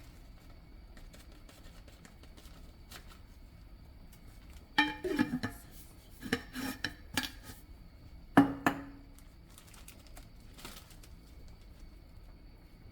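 Clatter and knocks of kitchen containers and utensils being handled, in a cluster about five seconds in and a sharp knock with a brief ring about eight and a half seconds in.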